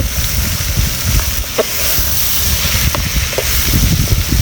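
Wind buffeting the microphone: a loud, uneven low rumble of gusts under a steady hiss.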